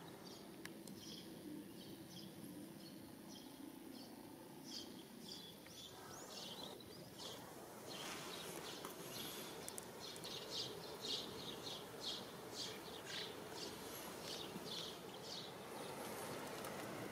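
Small birds chirping: a series of short high-pitched notes, sparse at first and growing busier about halfway through, over a steady background hiss.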